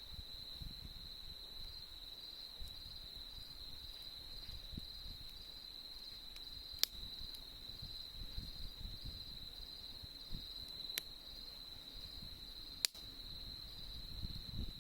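Autumn insects trilling in one steady, unbroken high tone over a campfire's low rustle. A few sharp pops from the fire break through, the last near the end.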